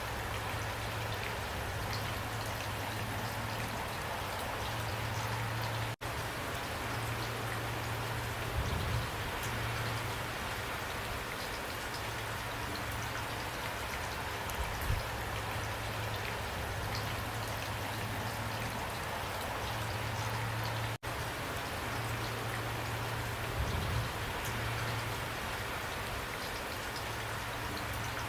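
Steady rain falling, with scattered individual drop ticks over an even hiss and a steady low hum underneath. The sound cuts out for an instant twice.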